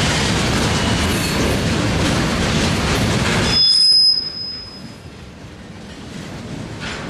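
Freight cars of a mixed freight train rolling past on steel wheels and rail, a dense, loud running noise. About three and a half seconds in the noise drops suddenly and a steel wheel gives a brief, high, steady squeal. The rolling noise then builds back up near the end.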